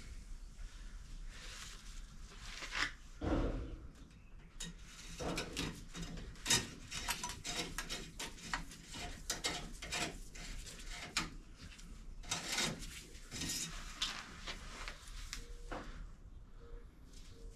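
Irregular clicks, knocks and clatter of objects being handled and set down, with a heavier thump about three seconds in.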